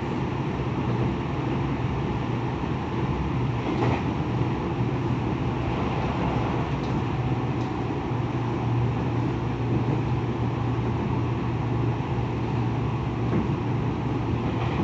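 Steady interior running noise of a Tokyo Metro 10000 series train travelling between stations: an even rumble of wheels on rail with a constant low hum. A brief click sounds about four seconds in.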